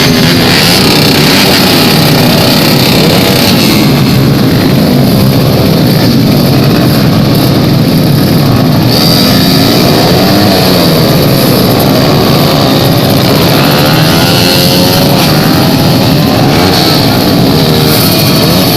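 Several motorcycle engines revving loudly at once, their pitches rising and falling over one another without a break, as drag bikes are tuned and run.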